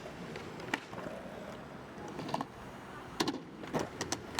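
Skateboard wheels rolling over pavement, with several sharp clacks of the board, a cluster of them in the last second and a half.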